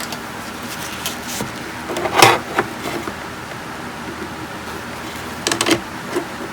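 Clattering handling knocks, one about two seconds in and a short cluster near the end, over a steady background hum, typical of parts and tools being handled on a workbench during an electronics repair.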